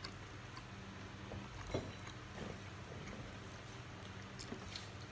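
Siomay being chewed with the mouth open: soft, scattered wet smacks and small clicks, with now and then a light tap of a fork against the plastic food tray, over a faint low hum.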